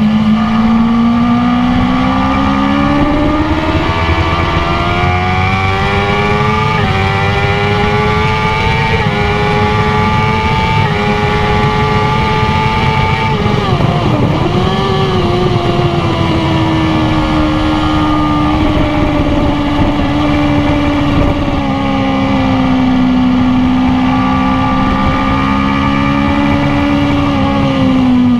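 BMW S1000RR inline-four sportbike engine at full throttle on track, its pitch climbing through several quick upshifts, then dropping sharply about halfway through as it brakes and downshifts, and running steadier and lower through the corner. Wind rush at high speed lies under the engine note.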